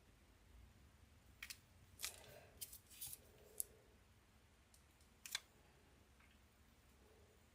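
Faint handling noise from small craft work: about half a dozen light, sharp clicks and a little soft rustling, scattered between about one and a half and five and a half seconds in.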